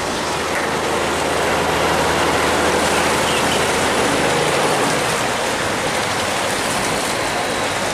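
Water rushing through a sluice gate, a steady hiss, with a barge engine running low underneath that fades about five seconds in.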